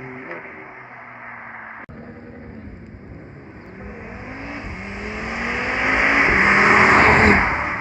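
A car accelerating past, its engine pitch climbing as it builds up, loudest a little before the end and then falling away.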